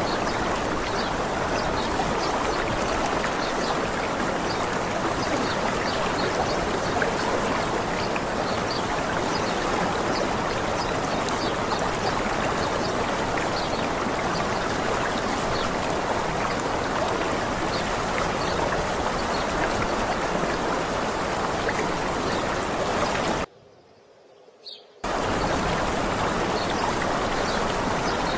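Steady rushing water of a waterfall, with faint short bird chirps over it. It cuts out suddenly for about a second and a half near the end, then resumes.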